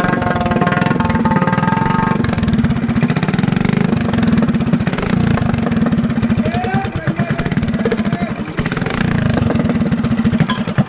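Motorcycle-type engine running through its exhaust, a loud, rapid, even putter that carries on steadily.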